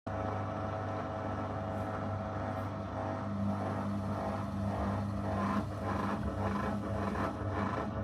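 Zanussi FL984CN washing machine running a wash program: a steady motor hum, with a second, higher tone joining about three seconds in and faint irregular swishes toward the end.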